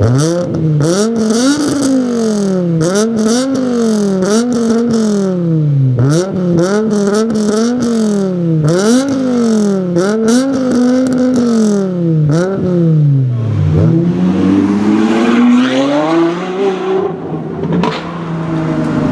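High-performance car engine revved over and over, its pitch rising and falling about once a second, with sharp crackles between the revs. Near the end it makes one slower, longer rev, then drops back to idle.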